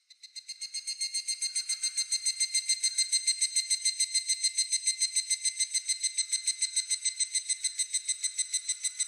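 Higurashi (evening cicada) calling: a rapid, even train of ringing pulses, about eight a second. The call swells up over the first two seconds, then holds steady and eases slightly near the end.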